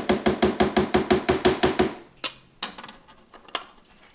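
Roomba dust bin filter being knocked rapidly against the side of a trash can, about six sharp taps a second, to shake the dirt out. The rapid tapping stops about two seconds in, followed by a few single knocks.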